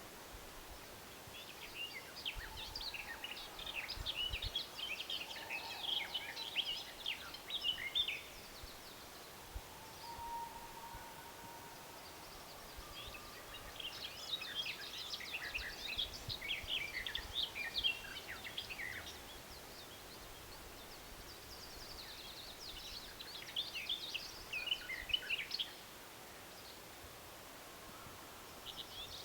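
A songbird singing long phrases of rapid high twittering notes, three songs of several seconds each with pauses of a few seconds between them.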